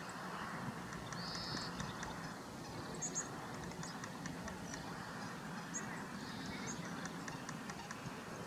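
Outdoor waterside ambience: a steady low rush with short, high bird calls several times.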